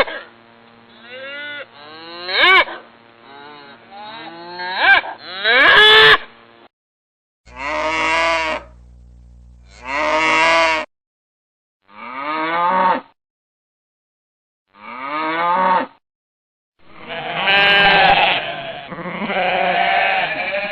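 A series of separate farm animal calls with short silent gaps between them: cattle mooing and sheep bleating. Sweeping, rising calls come first, then shorter calls, and a longer one near the end.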